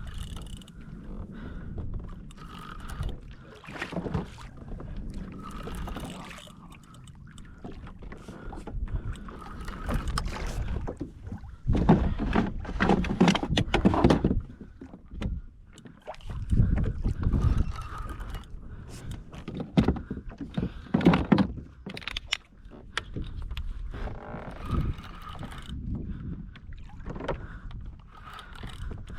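Water slapping and sloshing against a fishing kayak's hull, with gusts of wind rumbling on the microphone and scattered knocks.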